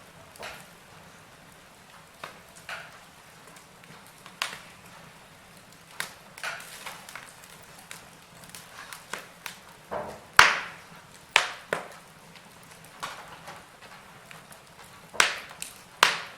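Wood fire in a fireplace crackling: irregular sharp pops and snaps over a low steady hiss, with the loudest snap about ten seconds in.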